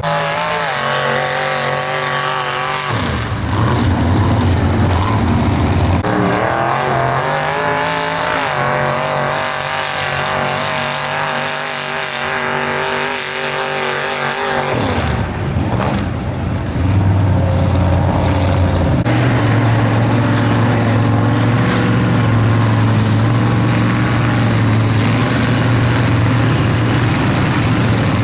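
Square-body Chevy mega truck's engine held at full throttle, running loud with its pitch wavering up and down. It dips briefly just past halfway, then climbs back and holds high and steady.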